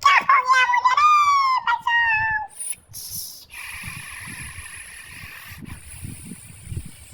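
A few high-pitched, wavering animal-like calls in the first two and a half seconds, then a steady hiss for the rest.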